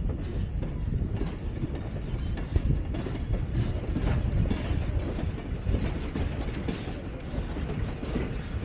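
Train of passenger coaches and a caboose rolling slowly past on the rails: a steady low rumble with rapid clicking and rattling from the wheels and cars.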